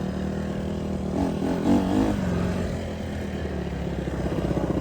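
Dirt bike engine running while riding, its pitch wavering with the throttle and the engine growing louder in the last second or so.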